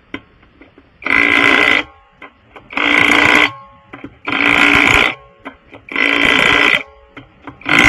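Pneumatic impact wrench running in five short bursts, about one and a half seconds apart, the pattern of lug nuts being driven on one after another on a changed wheel.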